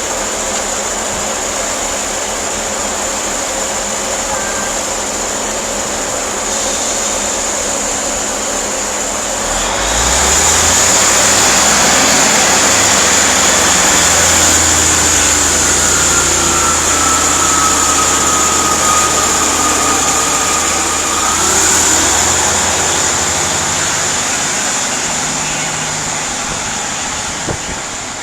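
Diesel multiple unit idling, then its engines opening up about ten seconds in as it pulls away from the platform. A high whine dips and rises over the following seconds, and the engine sound fades near the end.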